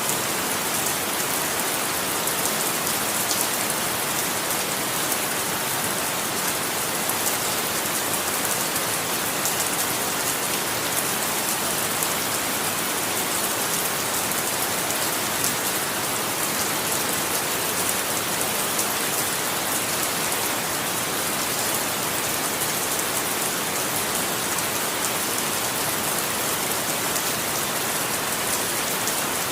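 Steady rain falling on a surface, an even hiss with the patter of individual drops and no change in intensity.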